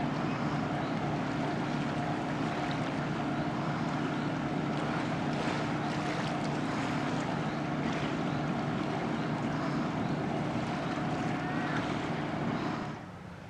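A boat's engine running at a steady pitch, under a haze of wind and water noise. The sound drops off abruptly near the end.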